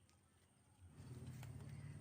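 Near silence, then a low rumble starts about a second in and keeps on, with a few faint clicks.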